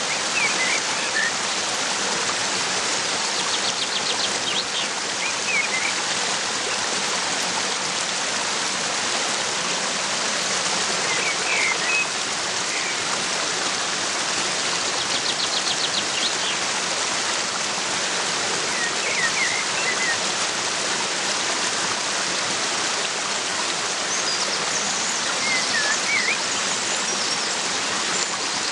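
Steady rushing of a waterfall, with small birds chirping and trilling briefly over it every few seconds.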